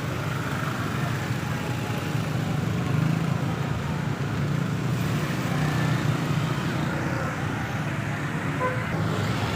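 Road traffic on a busy street: vehicle engines running steadily under a continuous hum of street noise.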